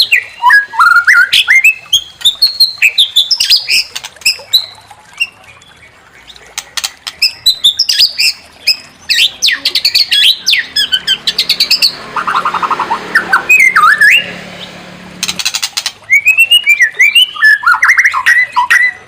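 White-rumped shama (murai batu) singing: rapid, varied whistled phrases sweeping up and down, broken by sharp clicking notes. About twelve seconds in comes a harsher, buzzy rattling stretch that cuts off abruptly about three seconds later, before the whistled song resumes.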